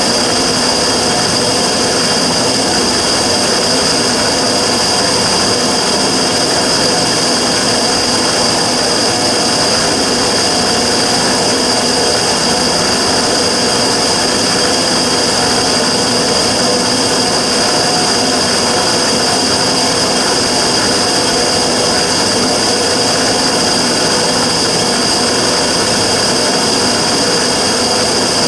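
Immersion-tube burner running with a steady loud rushing noise and a constant high-pitched tone over it, the abnormal noise (異音) that the burner is making.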